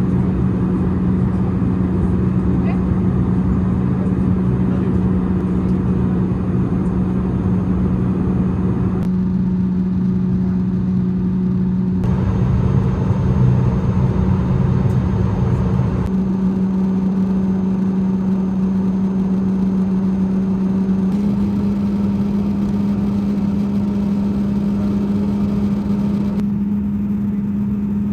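Steady airliner cabin drone from the engines and airflow, with a strong, even hum. The hum steps slightly higher in pitch twice in the latter half as the engines' power setting changes, around the start of descent.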